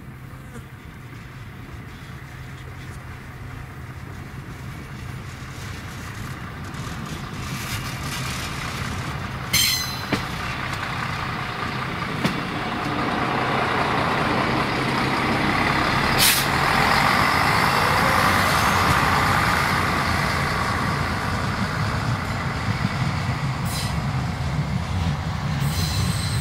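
A red passenger railcar approaches and rolls through the level crossing. Its running noise builds to a peak just past the middle, with sharp clicks from the wheels over the rail joints and crossing.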